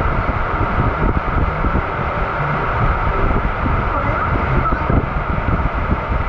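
Water rushing and wind buffeting the microphone as a tube raft slides down an enclosed water slide: a steady, loud noise with a heavy rumble.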